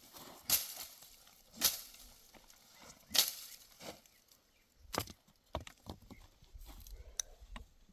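Uneven crunching steps on dry, stony ground, one every second or so.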